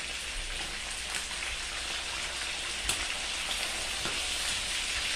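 Chicken pieces frying in oil in a frying pan: a steady sizzle with a few small pops.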